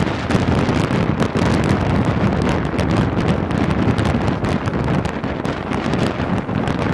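Wind rushing and buffeting over a microphone held out of a moving carriage window, over the running noise of a train hauled by a BR Standard Class 9F steam locomotive working steam.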